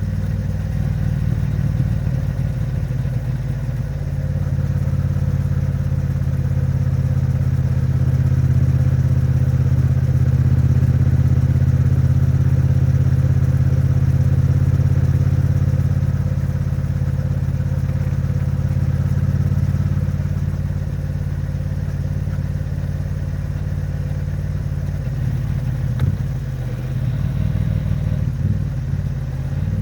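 Triumph Bonneville T100's 900 cc parallel-twin engine and exhaust pulling steadily at moderate cruising revs, the bike still in its running-in period. The engine note grows louder from about four seconds in and eases back again in the second half.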